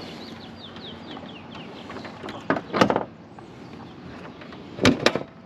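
A carbon fiber car hood being shut: a loud thud about two and a half seconds in, then a sharp double slam near the end.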